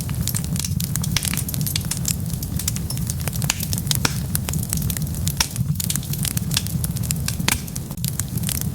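Wood fire burning with dense, irregular crackles and pops over a steady low rumble of flames.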